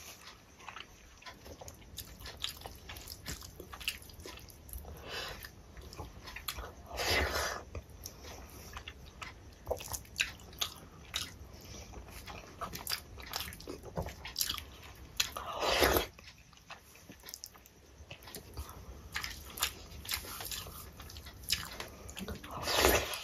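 Close-miked mouth sounds of someone eating rice and curry by hand: wet chewing with many small clicks and smacks. Three louder, rushing sounds of about a second each come near a third of the way in, past halfway, and at the end.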